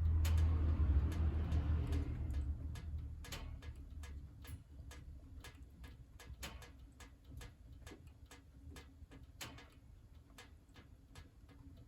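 Wood burning in a wood stove, crackling with sharp, irregular pops and snaps. A low rumbling rush is loudest at the start and fades away over the first few seconds.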